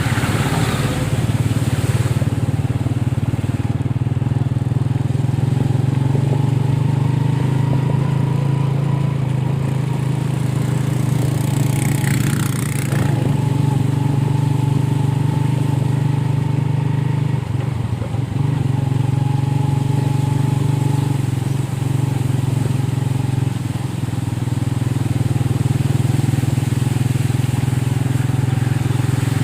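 A small engine running steadily at an even pitch, with a brief rushing sound about twelve seconds in.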